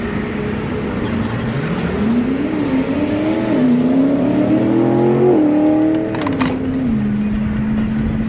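Harley-Davidson V-twin motorcycle engine heard while riding, over steady wind and road rush. The revs climb in steps with small dips, as if through gear changes, then fall back to a steady cruising note.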